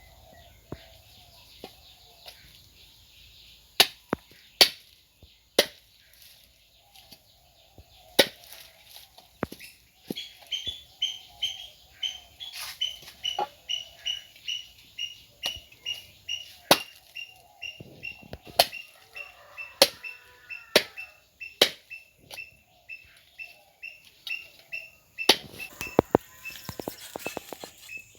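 Knife chopping on a cutting board: sharp, irregular strokes about a second apart, with a quick flurry near the end. A bird gives a high, repeated chirp about twice a second from about a third of the way in, and hens cluck low in the background early on.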